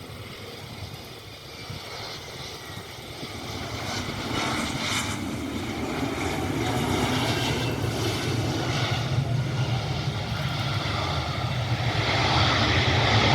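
Arriving airliner's engines, a rumble with a faint whine that grows steadily louder as the aircraft comes closer, loudest near the end.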